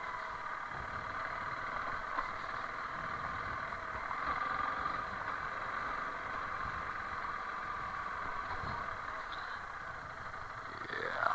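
Honda CRF300L Rally's single-cylinder engine running steadily under way on a rough dirt road. Its pitch sweeps up quickly and falls back near the end as the throttle is blipped, with a small knock about two seconds in.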